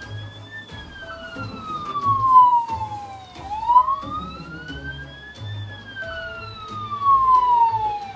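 Police siren wailing, its pitch rising and falling slowly in two long sweeps.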